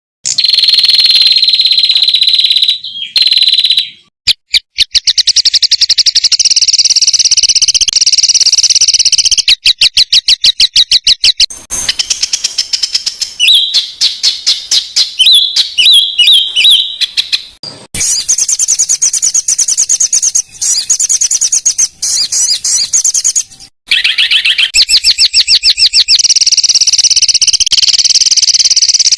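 Small songbirds singing loud, high-pitched rapid trills and chattering note series, many notes a second. The song comes in several stretches broken by short abrupt gaps. This is the dense rapid-fire 'tembakan' song used as a tutor recording for competition songbirds.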